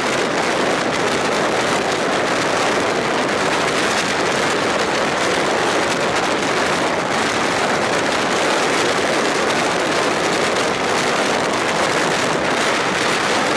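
Passenger train running at speed, heard from an open window: a steady rush of wind on the microphone mixed with the rolling noise of the wheels on the rails.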